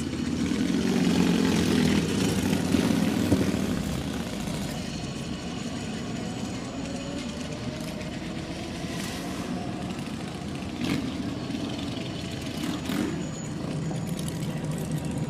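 Car engines and exhausts running in cruise-night traffic, heard from a moving old car. The noise is louder for the first few seconds, then stays steady.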